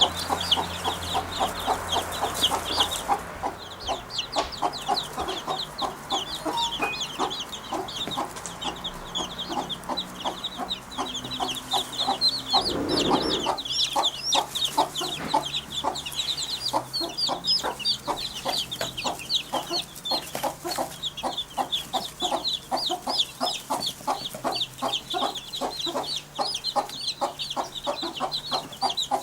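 Birds calling in a rapid, unbroken run of short high chirps and clucks, several a second, that sounds like a hen clucking.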